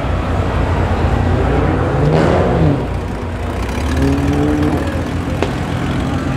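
Cars accelerating away, engines revving. About two seconds in, one engine's note sweeps up and then down as it goes past. Around four seconds in, another engine note climbs.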